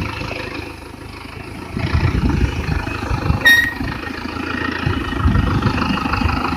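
A vehicle engine running with an uneven rumble, and a short beep about three and a half seconds in.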